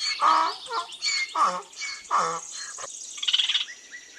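A series of short bird calls and chirps, about half a dozen in quick succession, then a rapid buzzy trill around three seconds in.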